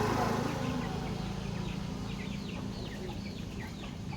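Baby chicks peeping: many short, high cheeps that slide downward in pitch, several a second, over a steady low hum.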